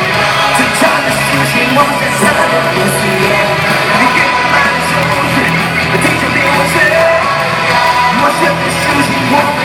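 Loud live pop-rock band music with a sung vocal line, over a yelling arena crowd.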